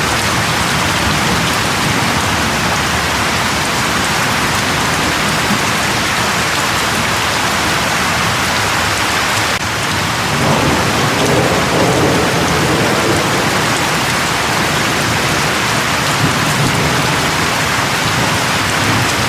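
Steady, heavy rain falling as an even hiss. There is a brief dip about halfway through, after which a low rumble rises under the rain.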